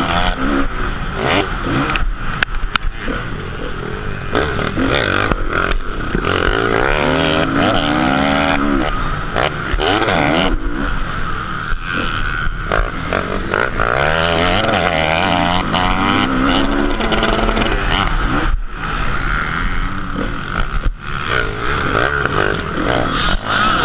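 Motocross bike engine revving hard, its pitch climbing and dropping again and again as the throttle is worked, with frequent short knocks.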